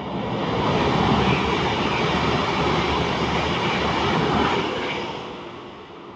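A train passing close by with a rattling rush of wheels on rails. It swells quickly, holds for about four seconds, then fades away.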